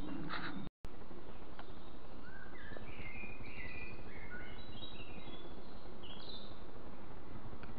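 Woodland ambience: a steady hiss of background noise, with a songbird singing a run of short high notes, some stepping up in pitch, from about two and a half to six and a half seconds in. The sound drops out for a moment just under a second in.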